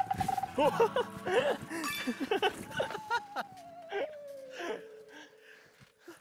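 Short bouncy, pitched sounds and vocal noises with a few clicks, then a long tone that falls slowly in pitch through the second half and cuts off at the end.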